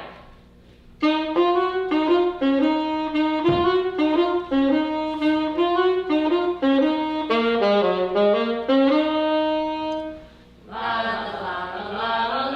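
A solo wind instrument, likely a saxophone, playing a slow melody of separate held notes, with a dull thud about three and a half seconds in and a breathier sustained passage near the end.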